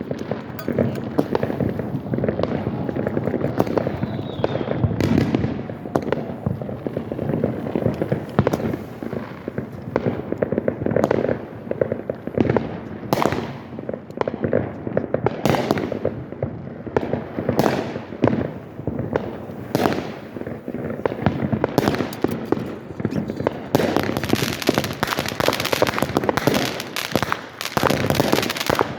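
Aerial fireworks going off in a continuous barrage of overlapping bangs and pops, several a second. The firing grows denser and sharper near the end.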